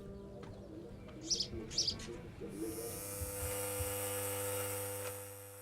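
Small birds chirp in two short pairs. About halfway through, a steady electric buzz with a hiss starts and runs on, easing off near the end.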